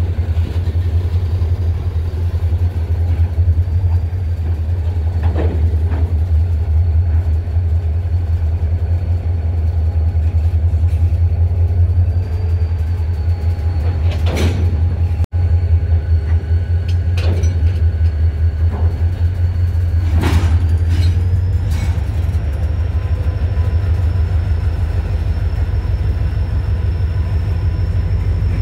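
Freight train rumbling steadily and loudly beside the track, with several short sharp sounds: one about five seconds in, a cluster around the middle, and another about two-thirds of the way through.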